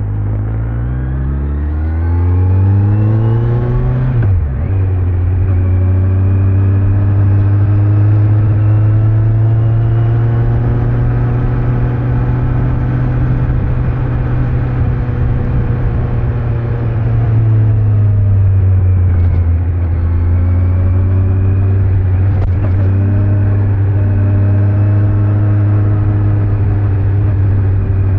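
Kawasaki Z900 inline-four engine with stock exhaust under way: it revs up through the first few seconds, drops at an upshift about four seconds in, then holds a steady cruising note. It eases off to a lower, steady note a little past the middle.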